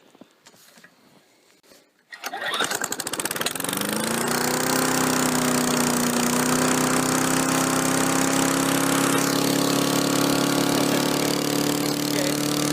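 A push lawn mower's small engine, primed by hand after sitting through the winter, catches about two seconds in, revs up over a second or two and settles into steady running.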